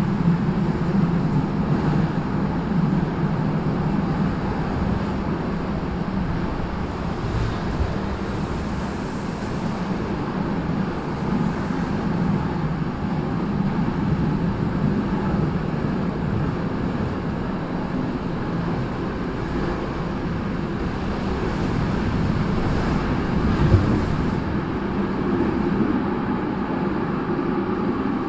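Passenger train running on the track, heard from the back door of the carriage: a steady low rumble of wheels and carriage, with one sharper knock late on.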